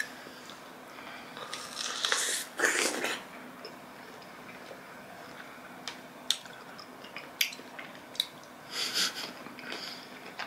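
A person biting into and chewing a fresh strawberry, with mouth and breath noises in short bursts and a few sharp clicks.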